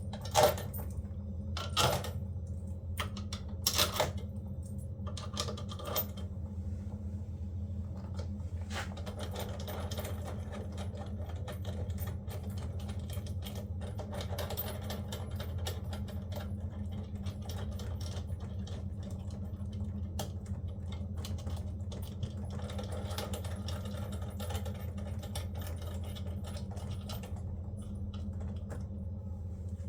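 A steady low mechanical hum with fast, light clicking and rattling over it, and a few sharper knocks in the first six seconds.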